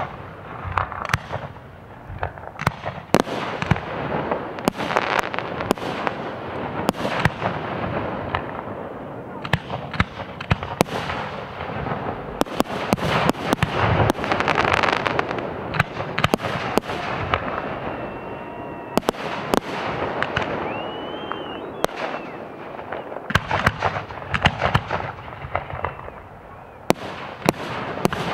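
1.3G display fireworks, aerial shells and cakes, bursting in quick succession: many sharp bangs one after another over a steady hiss.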